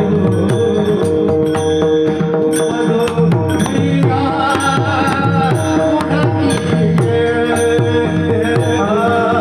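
Mrudang (pakhawaj) drumming in a rapid pattern, its deep bass strokes sliding down in pitch, over a steady drone, with a wavering melody line joining about four seconds in.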